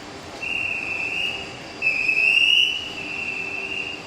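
High-pitched brake squeal from the arriving TRA E1000 push-pull train as it slows into the platform. It comes in three stretches, the middle one loudest, over the low rumble of the train.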